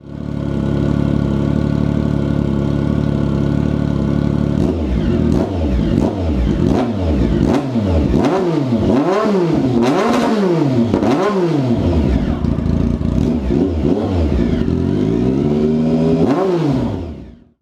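2014 Triumph Speed Triple 1050 three-cylinder engine running on open headers, its exhaust cans removed. It idles steadily for about four seconds, then is blipped about eight times in quick succession, with sharp pops as the revs drop. It settles back, gets one longer rev near the end, and cuts off suddenly.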